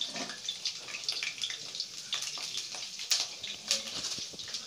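Chopped onions, green chillies and curry leaves sizzling in hot oil in a kadai, with many small crackles and pops over a steady hiss.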